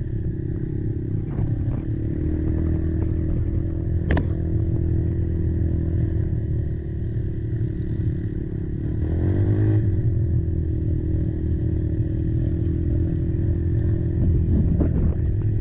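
Kymco Maxxer 300 quad engine running steadily under way, with a sharp click about four seconds in and a brief rise in revs a little past the middle.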